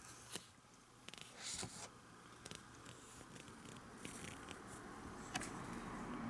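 Faint scattered clicks and scrapes of handling noise, with a sharp click about a third of a second in and another about five and a half seconds in, and a short rustling scrape around a second and a half in.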